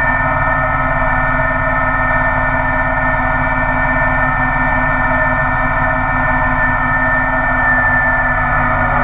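Kubota BX1800 sub-compact tractor's three-cylinder diesel engine running at a steady speed, a loud even drone with a ringing, many-toned edge.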